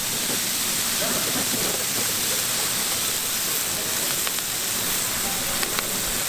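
Food sizzling on a hot flat-top griddle: a steady hiss with a few small ticks and crackles.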